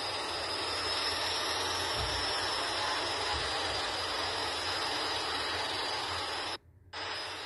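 Steady hissing background noise with no clear single source. It cuts out almost completely for a moment near the end, then comes back.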